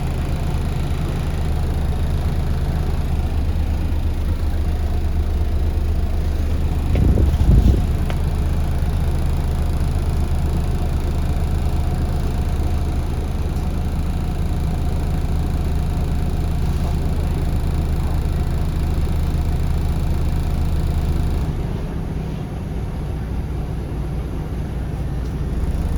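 Scania L94UB city bus heard from inside the cabin while riding, its engine a steady low drone. A loud thump comes about seven seconds in, and the engine note drops away about twenty-one seconds in, then picks up again near the end.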